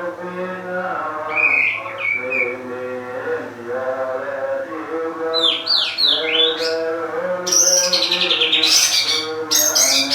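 A bird chirping, then giving a run of quick falling chirps and harsh, loud squawks in the second half. Under it runs a steady chanted or sung melody.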